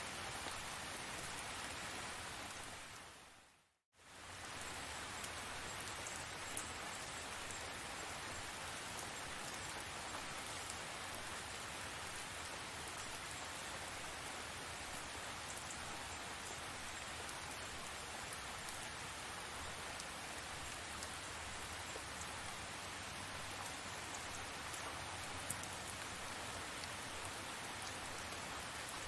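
Steady tropical rain falling, an even hiss with a few sharper drop taps. About three seconds in it fades down to silence and comes straight back, the seam of a looped recording.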